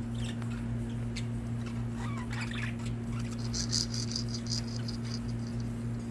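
Pet budgies chirping: a few short gliding chirps about two seconds in, then a quick run of high chirps lasting about two seconds, over a steady low hum and light scattered clicks.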